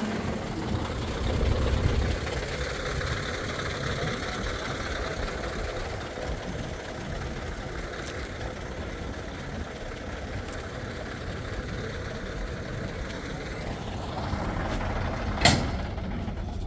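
Truck engine running, a low rumble strongest in the first couple of seconds that settles into a steady background hum. One sharp click or knock sounds near the end.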